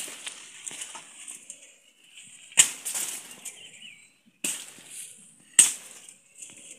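Three sharp cracks, at irregular intervals in the second half, with quieter rustling between them.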